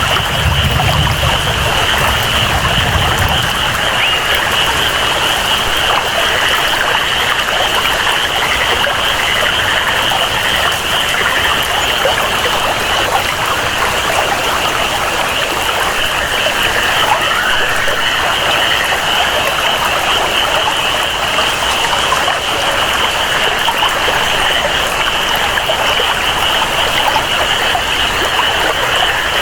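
Steady tropical rainforest ambience: rain and flowing, trickling water with a constant high jungle chorus over it. A low rumble underneath drops away about three seconds in.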